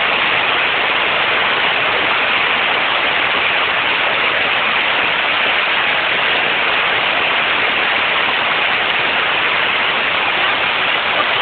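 Storm runoff of water, mud and sewage rushing down a street in a waterfall-like torrent: a steady, loud rush that does not change.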